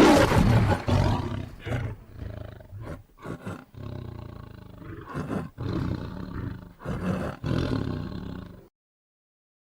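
Tiger roaring: one loud roar at the start, then a run of shorter, quieter roars that cuts off suddenly near the end.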